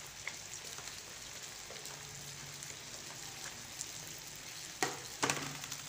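Sliced potatoes frying in oil in a pan, a soft steady sizzle, with two sharp clicks near the end.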